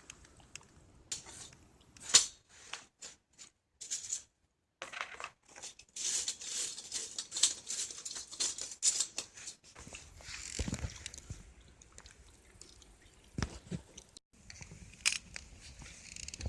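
Handling noises: scattered sharp clicks and clinks, a few seconds of busy rustling and scraping, and two dull knocks, broken by abrupt cuts to silence.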